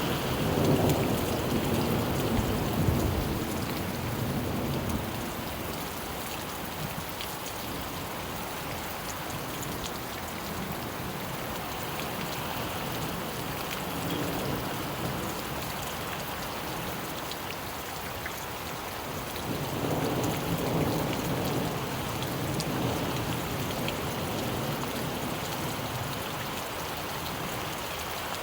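Steady rain falling, with low rolls of thunder at the start and again about two-thirds of the way through.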